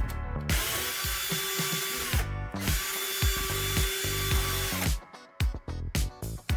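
Power drill running in two bursts of about two seconds each, a steady whine over a dense hiss, with a short pause between them. Background music with a steady beat plays throughout.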